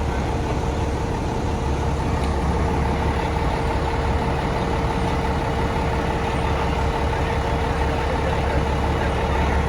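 Heavy truck engine idling, a steady low rumble with a constant hum above it.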